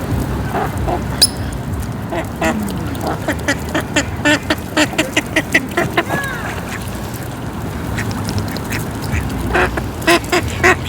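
Ducks quacking in quick series of short calls, about two to three a second: one run in the first half, and a second short run near the end. A steady low background noise lies underneath.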